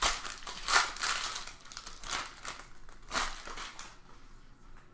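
Trading card pack wrappers crinkling and cards rustling as packs are opened and handled, in several short bursts that die down near the end.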